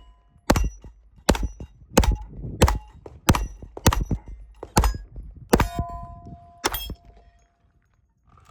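A string of about nine gunshots fired at steel targets, roughly one every 0.7 seconds, several followed by the ringing ping of a struck steel plate. The shots stop about seven seconds in.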